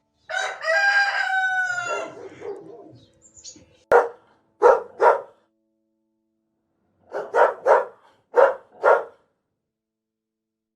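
Rooster crowing once, a pitched call lasting about two seconds. This is followed by a few short calls in two groups, three and then four.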